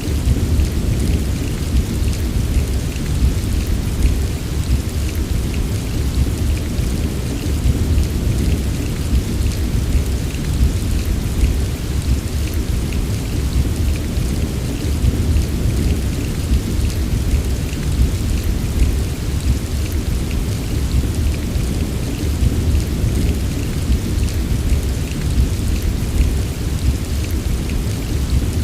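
Heavy rain falling steadily, a dense patter of sharp drop ticks over a continuous deep low rumble.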